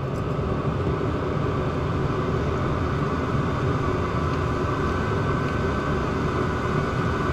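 Chinese diesel parking heater running steadily: combustion fan whine and burner rush with a steady high tone.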